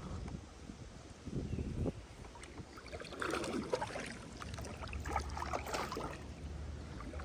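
Water sloshing with small irregular splashes and knocks around a kayak, over a low wind rumble on the microphone; the splashes and knocks come thickest in the middle of the stretch.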